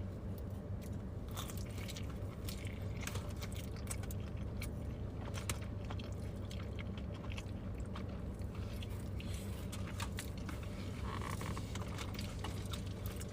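Close chewing and biting of food, with many small crunches and mouth clicks scattered throughout, over a steady low hum.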